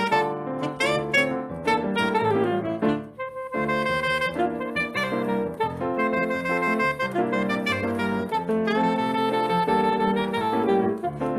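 Saxophone playing a melody live over instrumental accompaniment, in Brazilian jazz style, with a brief break in the line about three seconds in.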